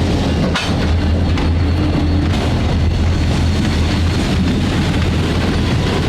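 Diesel-hauled freight train passing close by: a loud, steady low engine hum over rolling wheel-and-rail noise, with a few clicks from the wheels.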